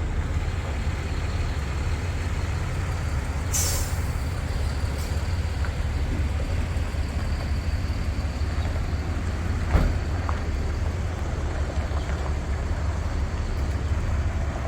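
Pickup truck engine running with a steady low rumble. There is a short hiss about three and a half seconds in and a sharp click near ten seconds.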